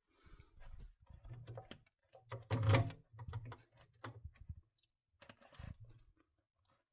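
Irregular light clicks and knocks of hands handling something, with one louder knock about two and a half seconds in.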